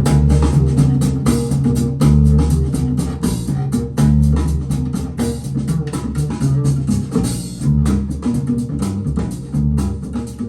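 Recorded music playing through a pair of KLH Model 3 bookshelf speakers in a room: an instrumental passage with a prominent bass line and a steady drum beat.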